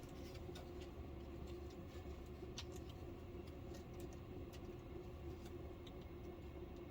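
Faint, scattered light clicks and taps of hands handling the parts of a flat-screen TV being reassembled, over a steady low hum.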